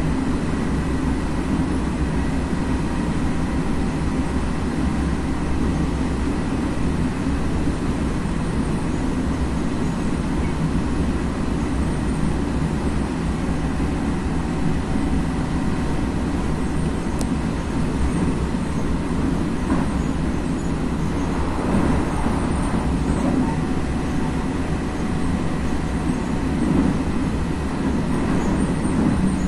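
Onboard running noise of an FS ALe642 electric railcar moving along the line: a steady rumble with faint steady whining tones above it.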